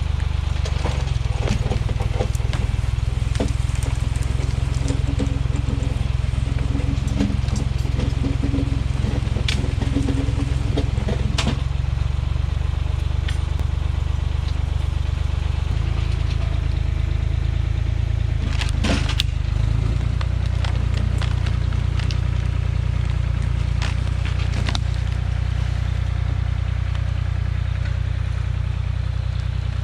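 Farm tractor engine running steadily, with scattered crackles and knocks over it.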